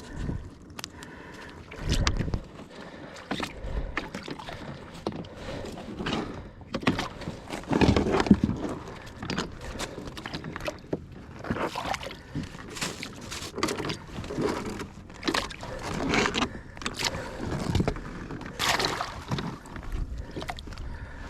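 Water sloshing and gurgling around a kayak, with many irregular knocks and scrapes against the hull as crab gear and catch are handled aboard.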